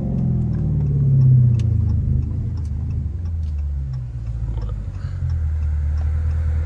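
Dodge Charger Scat Pack's 392 (6.4-litre) HEMI V8 rumbling at low revs off the throttle, heard from inside the cabin. It swells briefly about a second in, then settles to a steady low drone. A light, regular ticking runs underneath, the car's turn signal.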